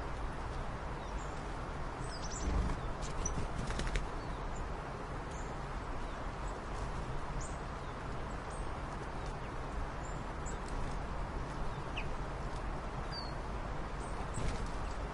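Small birds chirping with short, scattered calls over a steady background rush, with a cluster of soft knocks or rustles about two to four seconds in.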